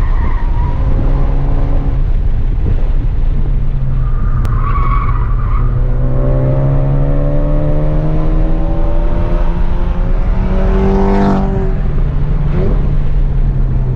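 Ford Focus engine heard from inside the cabin while driven hard on a racetrack, over a steady low drone of road and engine noise. A brief tyre squeal comes about four seconds in, then the engine note climbs steadily for several seconds under acceleration before changing sharply, as with a shift or lift, about three seconds before the end.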